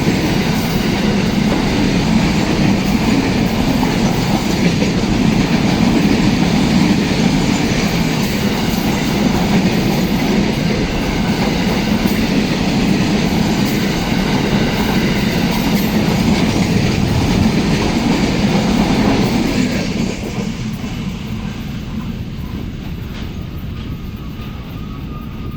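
Container freight train's wagons rolling past, a loud steady rumble of steel wheels on the rails. About twenty seconds in the sound drops off sharply and keeps fading as the train moves away.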